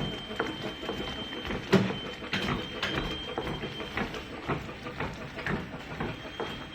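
Packaging machine for wooden ice-cream sticks and medical spatulas running: irregular mechanical clicking and clatter, with one sharper knock just under two seconds in, over a thin high whine that drops out for a couple of seconds near the middle.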